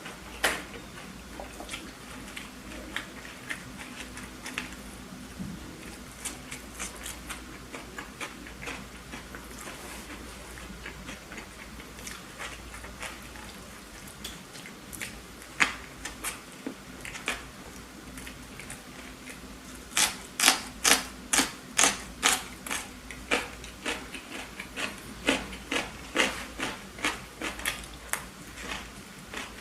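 Close-miked chewing and mouth sounds of a person eating a burger: scattered wet clicks, then about a third of the way from the end a steady run of loud chews, about two to three a second.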